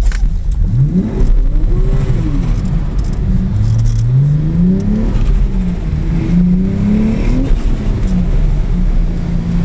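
Car engine heard from inside the cabin, its revs climbing and falling several times over a constant low rumble as the throttle is worked through a drift, then holding steady near the end.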